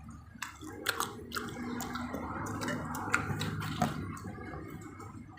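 Close-up eating sounds of pizza being chewed: wet mouth noises and scattered sharp clicks and smacks over a steady low room hum.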